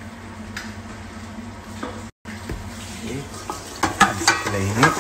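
Diced potatoes, tomato paste and onions sizzling in a cooking pot, with a spoon stirring and scraping against the pot in repeated strokes from about four seconds in.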